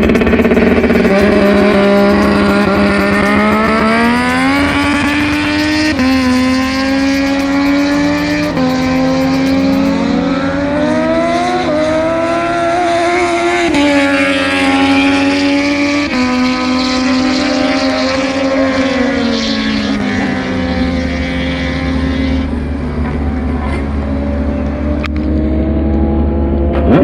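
MotoGP racing motorcycles running hard past the track, several engines overlapping, each climbing in pitch and dropping back in steps as the riders change gear. A low steady rumble joins about twenty seconds in.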